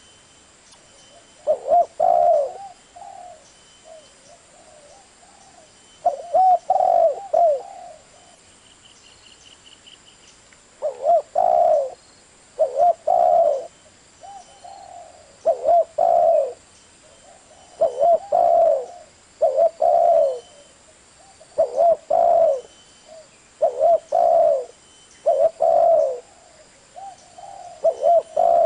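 Spotted dove cooing: repeated short phrases of low coos. The phrases come sparsely at first, then every second or two from about eleven seconds in.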